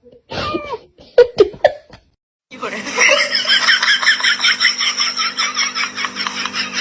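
Cat meowing, short gliding calls, then after a brief gap a loud, rapid string of high-pitched pulses at about six a second.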